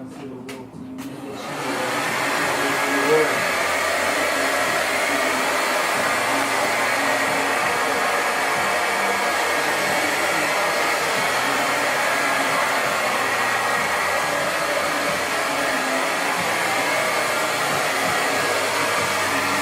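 A few light clicks, then a hair dryer switches on about a second and a half in and blows steadily, blow-drying a man's cut for pomade styling.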